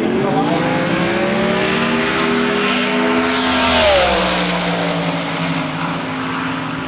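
Race car engine under hard acceleration: its note climbs in pitch, holds at high revs, then drops sharply as the car passes close by about four seconds in, carrying on at a lower steady pitch.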